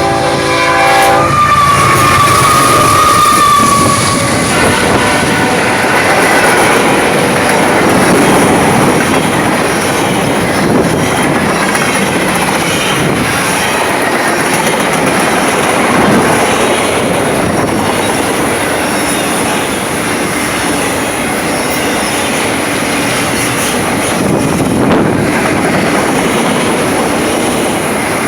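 Train wheels rolling past close by on the rails in a loud, steady rush. A multi-tone train horn cuts off about a second in, and a short high wheel squeal follows.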